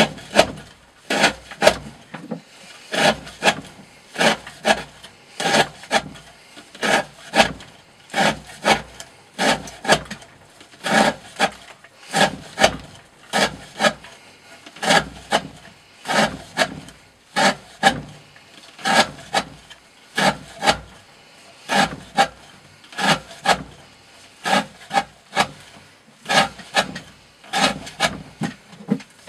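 D2 steel knife blade slicing through thick 20 mm rope again and again in an edge-retention test: a rhythmic series of short rasping cuts, about one a second, some in quick pairs.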